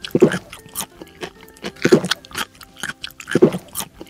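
Chewing and crunching sound effect: three loud munches about a second and a half apart, with smaller crackly crunches between them, standing for gumball candies being eaten.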